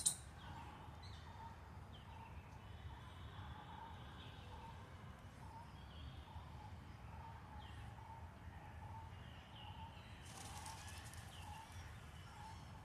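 Birds calling outdoors. One bird repeats a short note about twice a second, with scattered higher chirps over a steady low rumble. There is a sharp click at the very start and a brief hissing rustle about ten seconds in.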